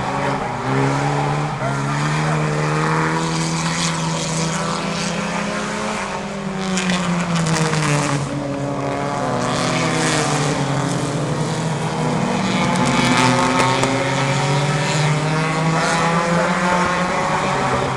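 Race car engines running around a short oval track, pitch rising and falling repeatedly as the cars accelerate and lift, with a few short bursts of hiss near the middle.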